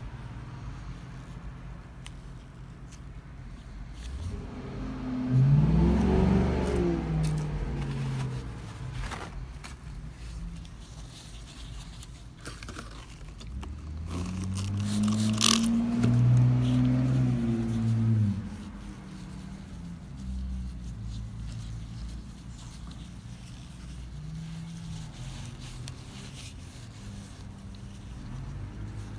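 A car engine revved twice, its pitch rising and falling each time, the second rev held for a few seconds, with a low running hum in between.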